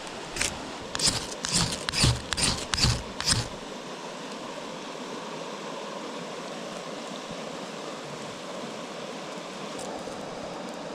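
Small river flowing steadily. A run of irregular thumps sounds over it during the first three or four seconds, then stops.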